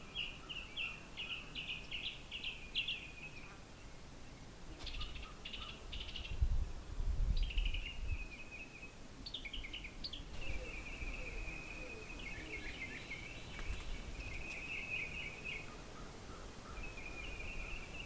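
Small birds chirping and trilling again and again. A gust of wind rumbles on the microphone about six to eight seconds in.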